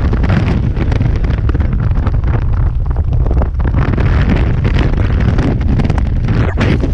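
Loud rushing wind buffeting the camera microphone during a skydive, a steady low rumble with rapid flutter.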